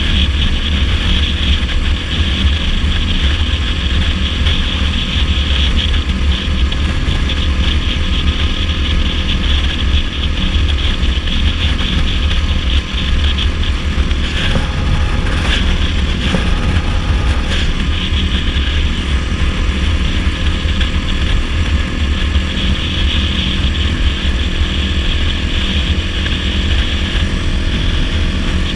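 Dirt bike engine running steadily at cruising speed on the road, with a short unsettled stretch about halfway through.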